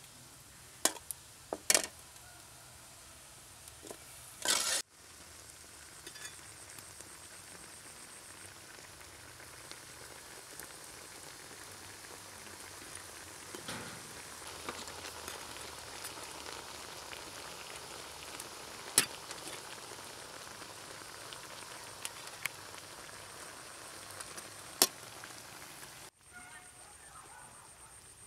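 Pineapple pieces and sugarcane sizzling in a hot sugary sauce in a steel wok, with a steady frying hiss. A metal ladle knocks sharply against the wok a few times, and there is a short loud burst of sizzle about four and a half seconds in.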